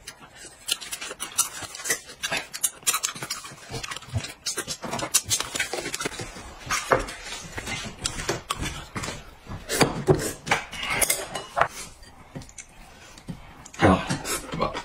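Irregular clinks and scrapes of chopsticks against bowls, mixed with eating noises, as a bowl of dry-mixed noodles is stirred and eaten.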